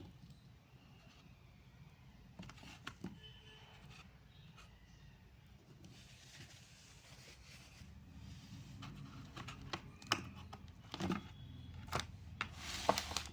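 Faint handling of a dates gift box and its packaging: scattered light taps and clicks, a soft rustle in the middle, then louder rustling with several sharp clicks near the end.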